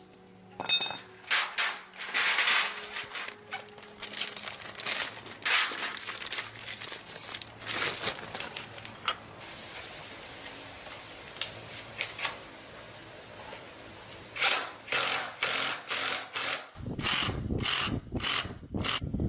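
Hand tools clicking, knocking and scraping on metal motorcycle wheel parts, in irregular bursts over a faint low hum; near the end the handling gets louder and rougher.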